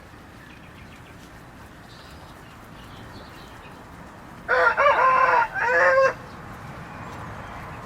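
Rooster crowing once: a loud call of about a second and a half, broken briefly partway through, over faint steady background noise.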